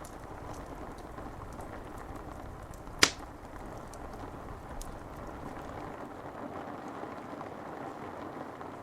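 Steady rain on window glass mixed with a crackling wood fire: faint scattered ticks over an even hiss, and one loud, sharp pop about three seconds in.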